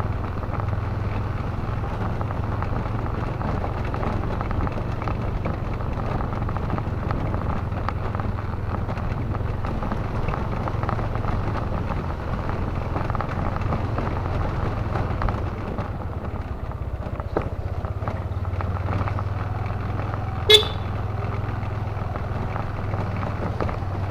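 Steady running noise of a motorcycle ride, a low engine hum under road and wind noise. A single short horn toot sounds about twenty seconds in.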